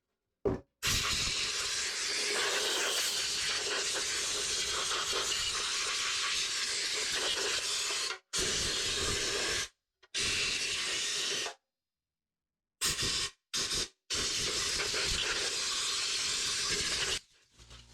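A hiss of pressurised gas or spray, in repeated runs. There is one long run of about seven seconds, then several shorter blasts, each starting and stopping abruptly.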